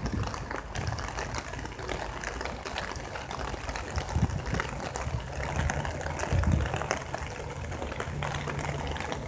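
Rain falling steadily, with many separate drops ticking close by. A low steady hum comes in near the end.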